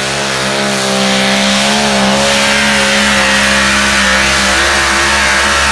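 A competition pulling vehicle's engine under load during a pull, running loud and steady with a slight waver in pitch.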